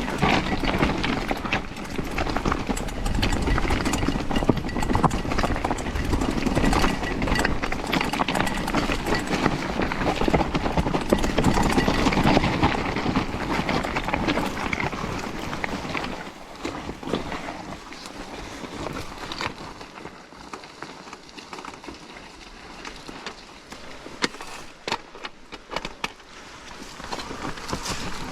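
Mountain bike descending a rough downhill trail, heard from a GoPro on the rider: steady rushing noise full of rattles and knocks as the bike clatters over the ground. It gets quieter from about sixteen seconds in, leaving scattered knocks.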